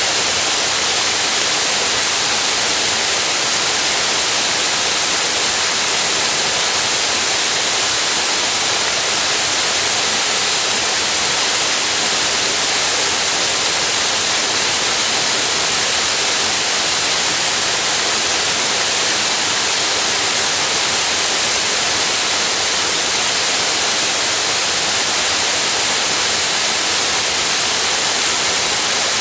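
Tatsuzawa Fudo Falls pouring in a steady, unbroken rush of water, loud and hiss-like, with most of its sound high up.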